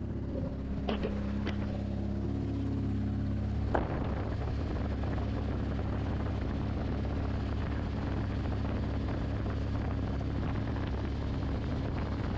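Lexus engine idling steadily with a low, even hum. There are a couple of light clicks about a second in, then a sharp knock just before four seconds, after which the sound turns noisier.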